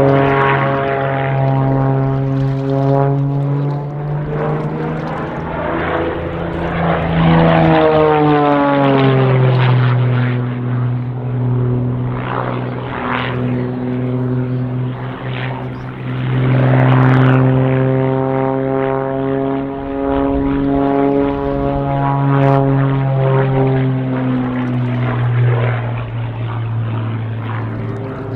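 Piston engines of propeller-driven aerobatic aircraft flying a formation display, a continuous drone. The pitch drops as the planes pass about seven to nine seconds in, and sweeps again as another pass comes through around sixteen to eighteen seconds.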